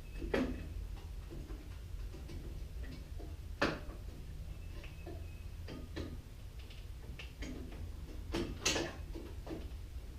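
Scattered metallic clicks and knocks from the starter and its bolts being handled and fitted against the engine, the two loudest about three and a half and eight and a half seconds in, over a steady low hum.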